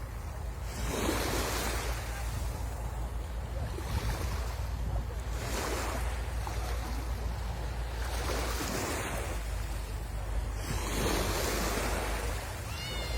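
Sea waves washing onto the shore, each surge of hiss swelling and falling away about every three seconds, over a steady low rumble of wind on the microphone.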